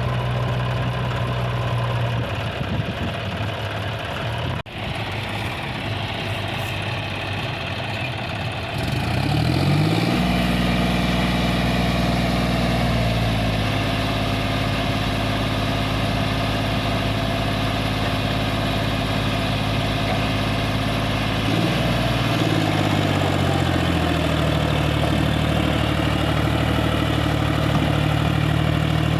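Diesel engine running, revved up about nine seconds in, held at the higher speed, then eased back down about twenty-two seconds in.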